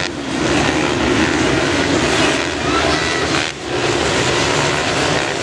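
Several motocross bikes running hard together, engines revving up and down, with brief rising whines as riders open the throttle.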